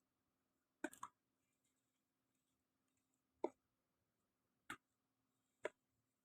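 Short, crisp crunches of dry, dusty sand blocks crumbling: four separate crunches with near silence between them, the first a quick double about a second in.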